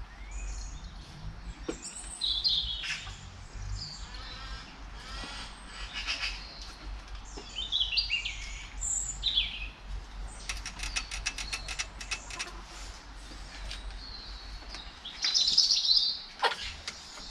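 Birds chirping and calling in short, high notes scattered throughout. About halfway through comes a rapid clicking rattle lasting about two seconds, and a louder call follows near the end.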